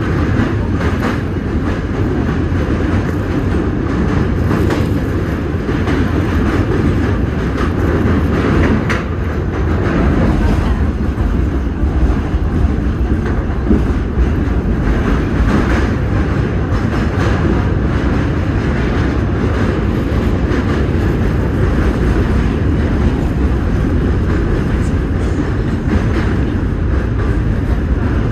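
Train running along the track, heard from inside the car: a steady loud rumble of wheels on rails with scattered clacks over the joints.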